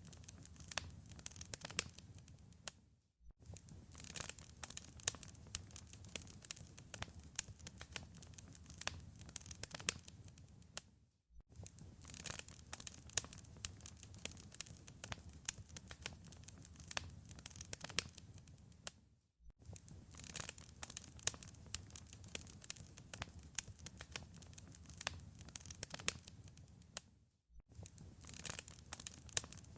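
Wood fire in a fireplace crackling, with many sharp pops and snaps over a low rumble. It briefly fades out to silence about every eight seconds.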